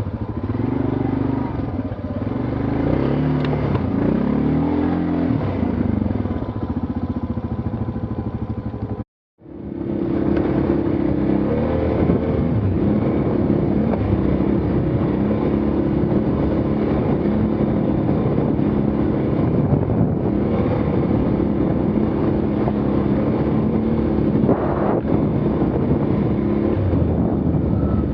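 ATV engine running and revving, its pitch rising and falling as it is ridden, with a brief cut to silence about nine seconds in.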